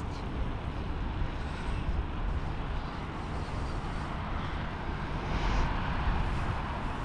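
Wind rushing over an action camera's microphone on a moving bicycle, with a steady low rumble from the ride; it grows louder about five seconds in.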